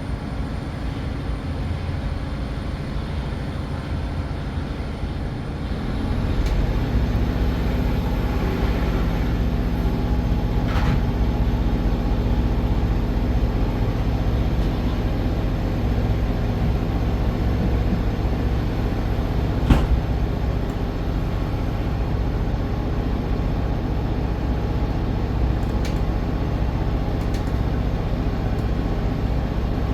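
Interior running noise of a diesel multiple-unit passenger train, a steady low rumble that grows louder about six seconds in as the engine powers up. A sharp knock about two-thirds of the way through and a few fainter clicks are also heard.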